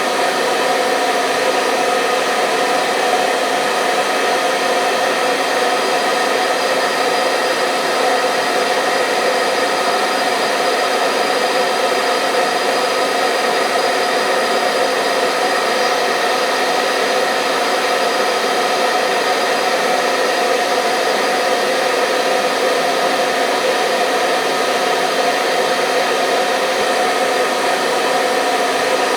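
Hair dryer running continuously at a steady speed: an even whooshing blow with a constant motor hum, used as white noise to lull babies to sleep.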